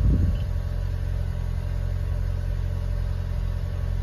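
Toyota Camry engine idling steadily, a low even hum.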